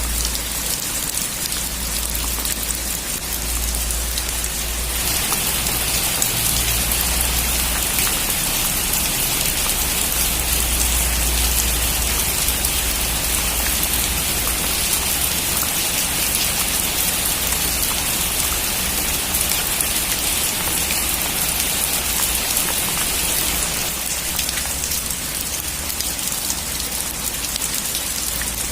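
Heavy rain falling on a metal roof, a dense steady patter of drops. It grows heavier about five seconds in and eases a little near the end.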